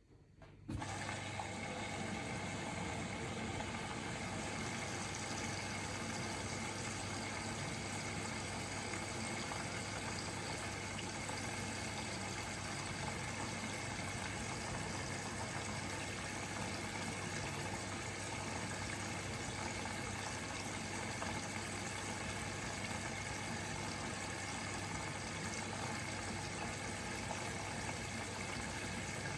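Bosch Serie 4 washing machine taking in water at the start of its wash cycle. The inlet valve opens suddenly, then water rushes in steadily with a low hum.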